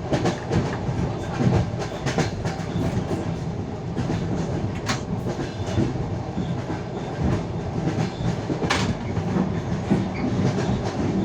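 A passenger train's wheels clacking over the rail joints at running speed, heard from the carriage, over the carriage's steady rumble. There are sharp knocks throughout, with two louder ones about five seconds in and near nine seconds.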